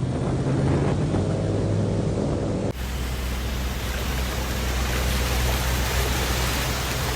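Airboat engine running steadily, then a sudden cut about three seconds in to a steady hiss over a low hum.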